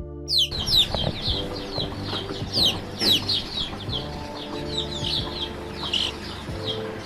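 A group of chicks peeping: many short, high, downward-falling cheeps overlapping one another without pause, with steady background music underneath.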